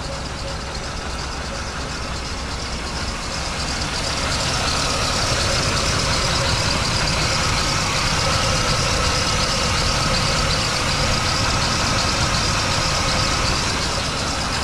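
A 1989 GMC Sierra pickup's engine running at idle. It grows louder about four seconds in and then holds steady.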